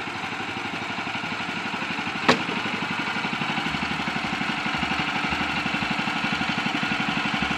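Woodland Mills HM130MAX bandsaw mill's gasoline engine running steadily with an even pulse, plus a single sharp click about two seconds in.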